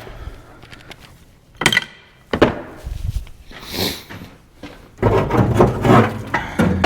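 Scattered knocks and clunks of metal parts and hand tools being handled under the hood of an old pickup, with denser clatter near the end.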